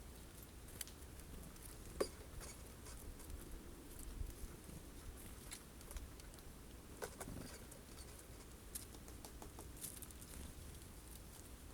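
Faint, scattered taps and clicks of birds pecking at sunflower seeds on a feeder, with one sharper knock about two seconds in.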